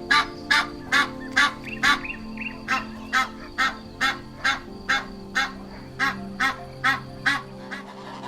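Goose honking repeatedly, about two honks a second, the calls growing weaker after the middle.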